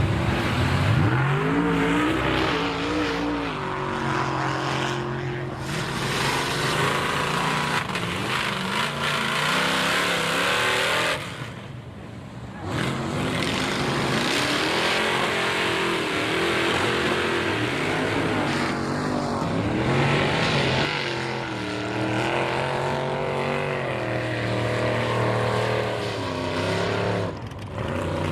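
High-horsepower mega mud truck engine with open headers, revving hard again and again, its pitch rising and falling through the throttle blips. The sound drops away briefly about eleven seconds in, then comes back.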